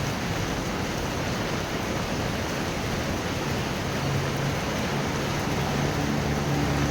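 Steady heavy rain falling during a thunderstorm. A low steady hum joins it about four seconds in.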